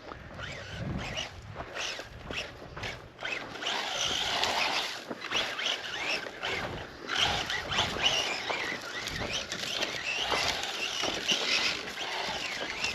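Losi brushless electric RC truck driving through loose sand, its tires churning and throwing sand in a scratchy, crackling rush that rises and falls with the throttle.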